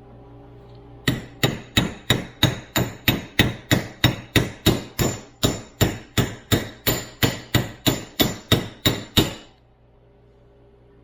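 Hammer tapping on a socket to drive a new oil seal into a Toyota FJ40 steering gearbox: a steady run of about three light metallic taps a second, each with a short ring, lasting about eight seconds and then stopping.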